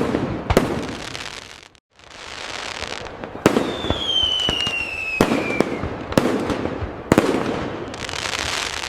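Fireworks display: five sharp aerial bangs with crackling and rumbling stretches between them, and a whistle that falls in pitch for about two seconds near the middle. The sound drops out briefly about two seconds in.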